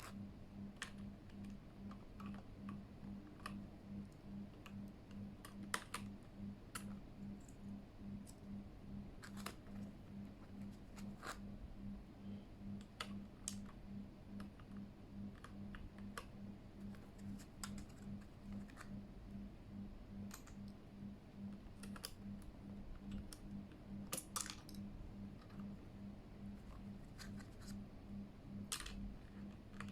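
Sparse, irregular plastic clicks from a Keychron K8 mechanical keyboard as its keycaps are worked on, fitted or pressed one at a time, with a faint steady pulsing hum underneath.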